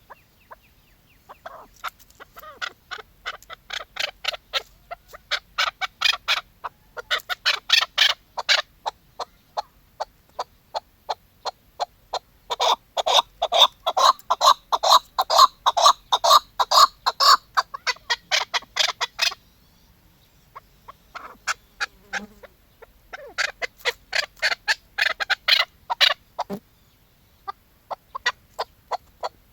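A female chukar partridge calling in rapid runs of short repeated notes, in several bouts with pauses between them; the longest and loudest run comes in the middle, and the notes thin out to scattered single calls near the end.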